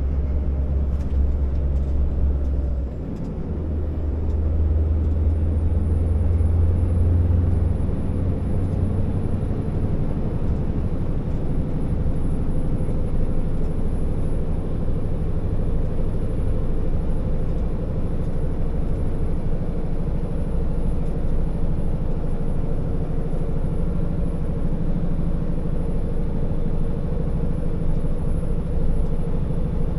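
Scania R650 timber truck's V8 diesel running steadily under load on the road, with a short drop in engine sound about three seconds in before it pulls hard again.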